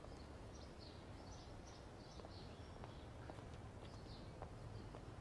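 Faint birdsong: small birds chirping in short, repeated calls, with a few soft clicks and a low steady background hum.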